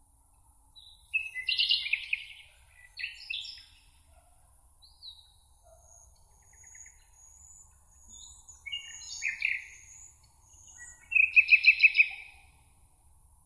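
Songbirds singing: several short bursts of quick chirping song, with thin high notes in between, the loudest a rapid trill near the end. A faint steady high hiss runs underneath.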